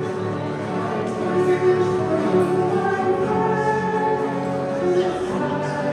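Congregation or choir singing a hymn, with sustained notes that change pitch every second or so.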